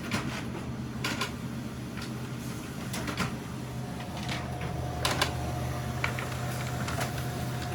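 A laser printer running through a long double-sided print job: a steady hum with irregular sharp clicks throughout, and a faint thin tone in the second half.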